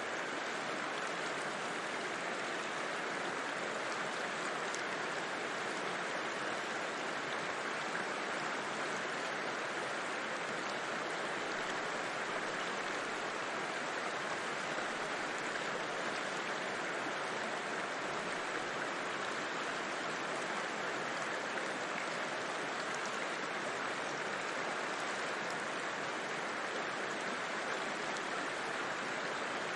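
River flowing: a steady, even rush of water with no pauses or changes.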